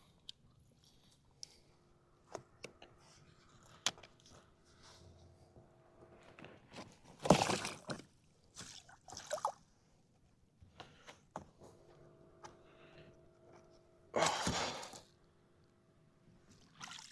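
Water splashing and sloshing twice, briefly, about seven and fourteen seconds in, from a netted redfish being handled beside a kayak, with small clicks and knocks of gear in between.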